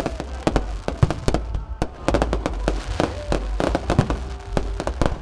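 Fireworks display: a rapid, irregular barrage of sharp firework bangs and crackles, many reports a second, over a low rumble.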